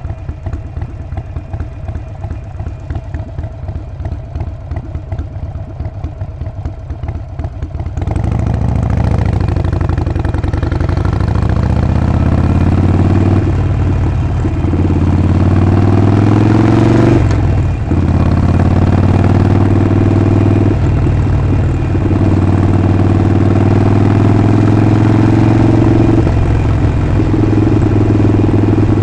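Harley-Davidson Sportster 48's air-cooled 1200 cc V-twin idling with an even, lumpy beat, then, about eight seconds in, revving up as the bike pulls away. The engine note climbs and drops back four times as it shifts up through the gears.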